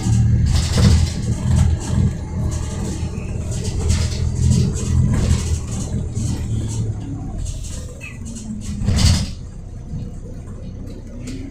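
Volvo B7RLE bus's six-cylinder diesel engine running with a steady low hum, dropping away about eight seconds in. A short, loud burst of noise follows about a second later.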